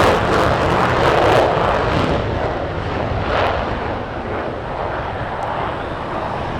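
Jet noise from an F-15 Eagle's twin turbofan engines on departure, a steady rushing roar that slowly fades, its high hiss dying away after about two seconds.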